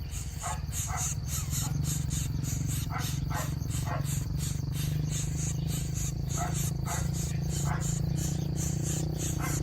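Young coucal giving short calls, singly and in quick pairs, over a steady low hum and a high, fast-pulsing buzz.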